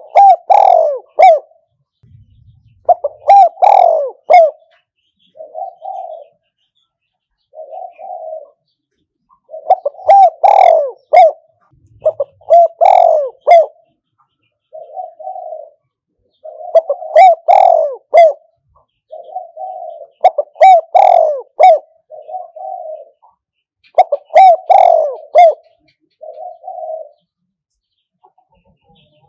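Spotted dove cooing: a loud phrase of several coos every three to four seconds, with shorter, fainter coos in between. This is the calling of a decoy dove used to lure wild spotted doves.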